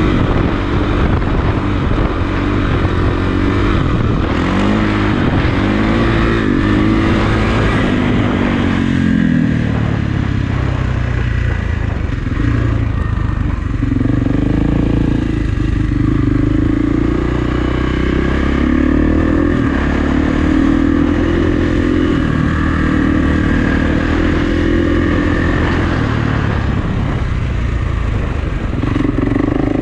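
Kawasaki KX450F dirt bike's single-cylinder four-stroke engine revving up and down repeatedly as the bike is ridden.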